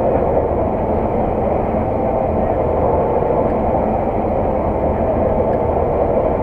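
Harvest machinery running steadily: a heavy diesel engine and its drivetrain droning at a constant pace, with no change in speed or load.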